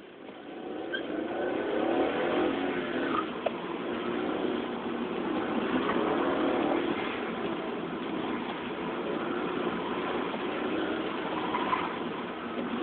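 Car engine heard from inside the cabin, revving up and down as the car accelerates and slows through an autocross cone course; it builds over the first couple of seconds, then keeps rising and falling in pitch.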